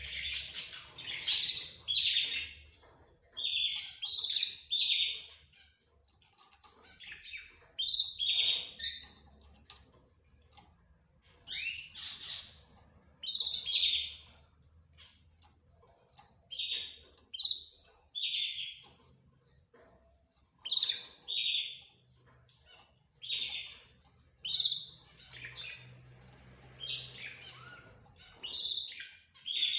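Small pet cage birds calling: short, shrill chirps repeated every second or two, some in quick runs of two or three.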